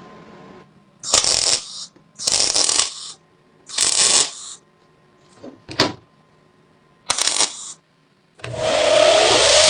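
Five short rasping strokes, one to two seconds apart. About a second before the end a small power tool starts up and runs steadily with a whine, typical of a rotary tool or drill working rusted metal.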